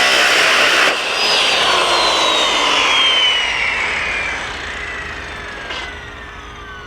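Electric power tool used for cutting sheet metal, running at full speed, then switched off about a second in and spinning down, its high whine falling steadily in pitch and fading.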